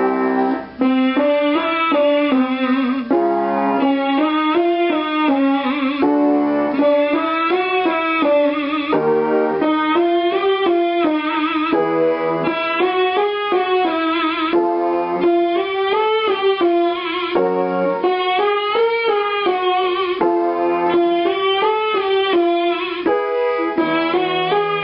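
A singer humming a closed-lip 'mmm' exercise over piano: three notes stepping up and coming back down, repeated phrase after phrase, with the piano changing key between them.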